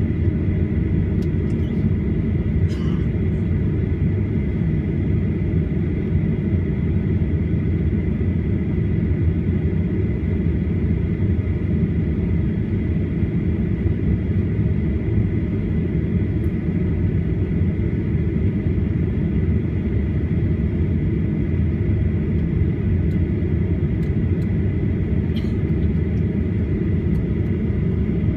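Steady low rumble heard inside the cabin of a Boeing 737-800 on the ground before takeoff, with a thin steady high whine over it and a few faint ticks.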